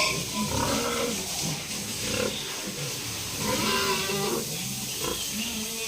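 Pigs calling, a steady run of short pitched calls that bend in pitch, busier about three and a half seconds in.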